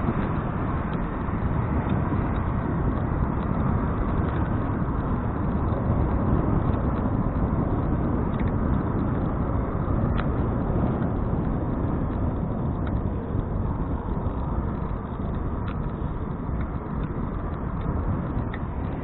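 Steady wind rush and rolling noise picked up by an action camera riding along on a bicycle, with a few faint ticks.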